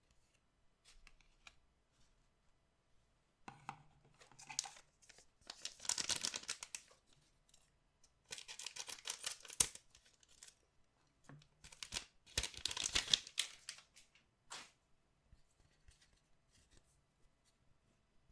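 Paper and foil packaging of a collectible card box being torn open in several short rips, with crinkling and a couple of sharp clicks between them.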